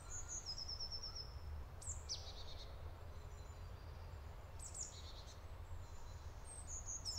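Faint woodland birdsong: small birds giving several short high chirps, one a quick run of repeated notes near the start, over a low steady background rumble.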